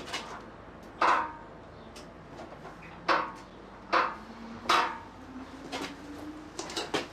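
Metal clanking and clinking as the engine crane hoists the Jaguar V12 engine: four sharp, ringing clanks, the last three coming close together in the middle, among lighter clicks and knocks.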